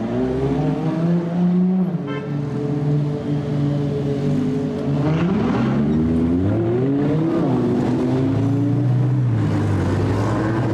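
Sports car engine through a loud aftermarket exhaust, revving: its pitch holds, drops, then climbs again about halfway through before levelling off.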